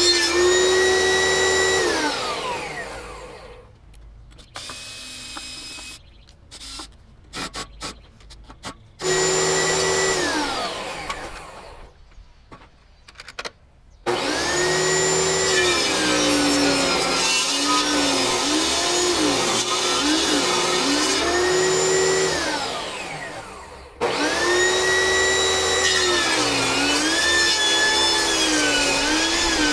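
Table saw with a ripping blade cutting very hard American beech: the motor whine starts up suddenly several times, sags in pitch again and again as the blade bogs down in the dense wood, and winds down to a stop between passes, with scattered knocks while it is off.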